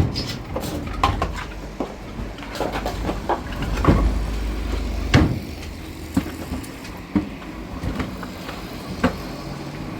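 Irregular sharp knocks and clatters, a dozen or so spread unevenly, over a low rumble that swells about four seconds in.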